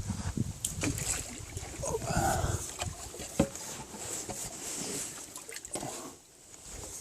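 Small boat being worked through water: water splashing and sloshing around the hull, with scattered light knocks.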